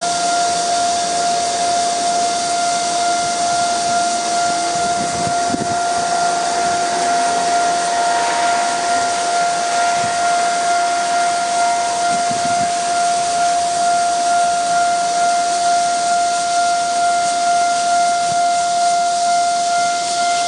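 Taiwan Railway level-crossing warning alarm sounding continuously as a train approaches: one steady, piercing tone with a faint pulse. Under it is a steady high hiss.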